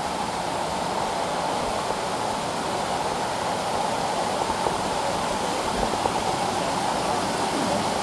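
A waterfall of about 20–25 feet rushing steadily: an even, unbroken roar of falling water.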